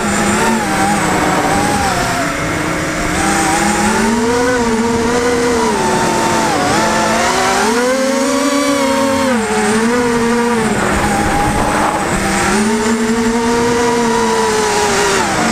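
FPV racing quadcopter's electric motors and propellers whining continuously, the pitch rising and falling as the throttle is worked in flight.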